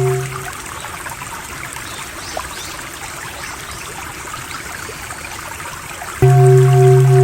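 Trickling water, running steadily with small drips. A low humming drone with a pulsing higher tone fades out in the first half second and cuts back in abruptly about six seconds in.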